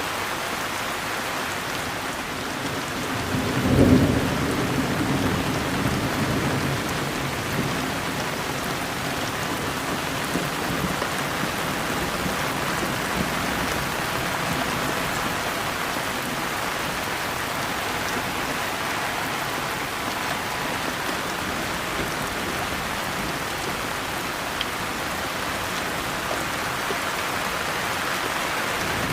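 Steady heavy rain falling. A low roll of thunder swells about four seconds in and dies away over the next few seconds, and another low rumble starts right at the end.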